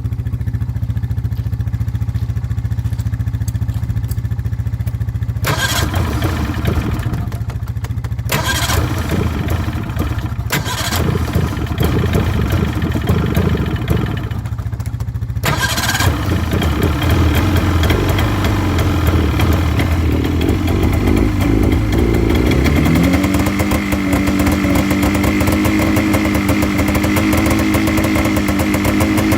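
Snowmobile engine running, with two louder stretches of throttle, then rising in pitch about three-quarters of the way through and holding a steady higher speed.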